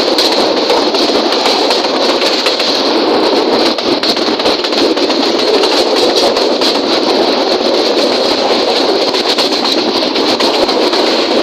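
Train running: a steady, even rail noise throughout.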